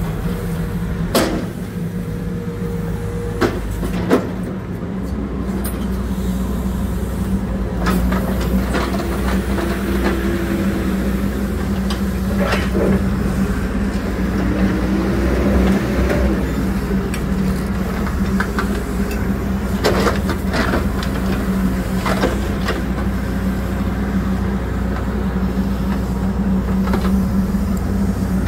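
Hidromek 102S backhoe loader's diesel engine running steadily, with sharp knocks several times and brief whines that rise and fall.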